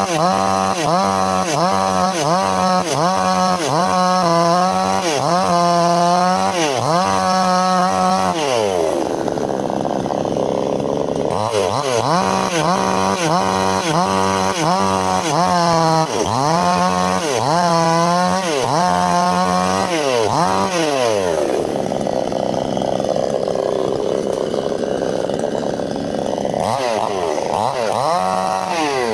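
Two-stroke chainsaw running loud, its engine pitch repeatedly rising and falling about once a second as the throttle is worked while cutting wood. A stretch of steadier, rougher running comes in the middle and again near the end.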